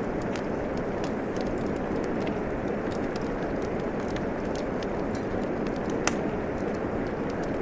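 Wood fire crackling with scattered small pops over a steady hiss of rain; one sharper pop about six seconds in.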